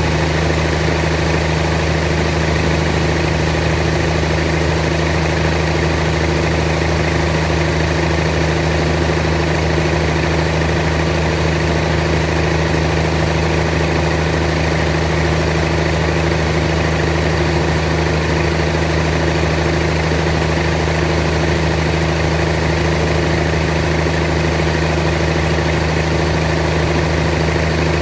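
Sawmill machinery running steadily: an engine-driven hum that holds one low pitch throughout, with no changes in speed or load.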